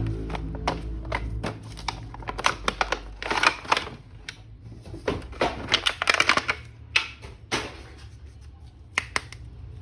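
Plastic toy figure and packaging being handled: a string of sharp clicks and taps, with two longer rustling stretches about three and six seconds in.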